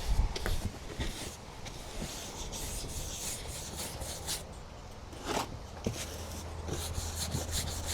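Cheap paintbrush rubbing a turmeric paste onto paper, a run of irregular scratchy brush strokes over a low rumble of wind.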